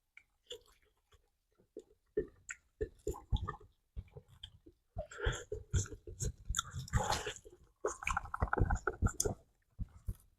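A person chewing and biting food close to the microphone: a run of short, irregular crunching and smacking sounds, coming thicker from about halfway in.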